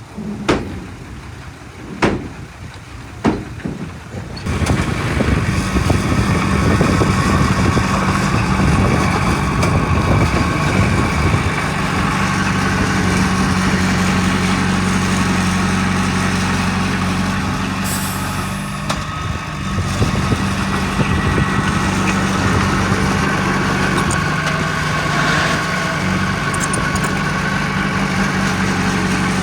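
Three sharp knocks in the first few seconds, then a heavy diesel engine of an earthmoving machine comes in loudly and runs steadily.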